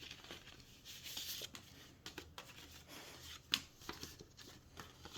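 Rustling and handling of paper and packaging as small merchandise items are unwrapped, with scattered light clicks and one sharper click about three and a half seconds in.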